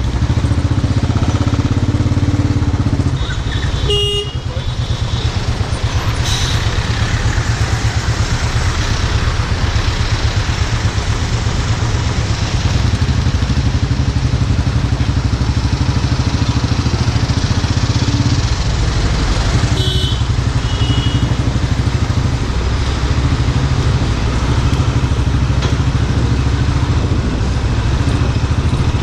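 Royal Enfield motorcycle engine running steadily under way, with two short vehicle horn honks, about four seconds in and about twenty seconds in.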